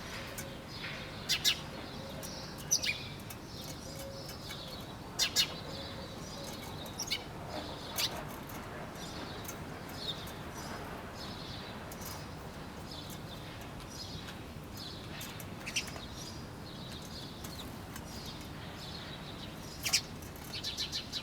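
Several small birds chirping: many short, high chirps, some louder ones coming in quick pairs, over fainter chirping and a steady low hiss.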